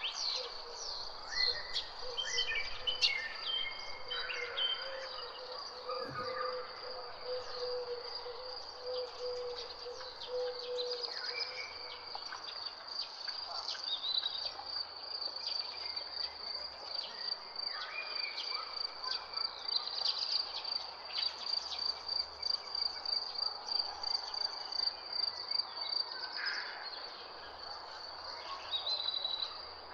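A high, steady insect trill with a rapid pulse runs throughout, under scattered chirps and whistled calls of several birds. A lower, steady trill sounds for several seconds in the first part.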